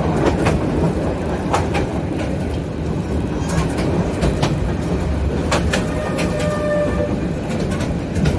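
A train running on rails: a steady low rumble with irregular sharp clacks of the wheels, and a faint pitched tone for about a second around six seconds in.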